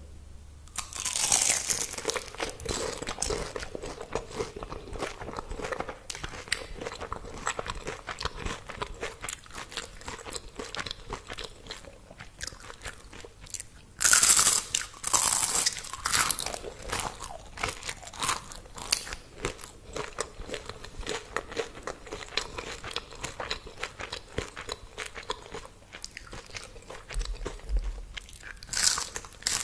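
A person biting into and chewing crispy fried food: a loud crunching bite about a second in and another about halfway through, with steady crackly chewing in between and after.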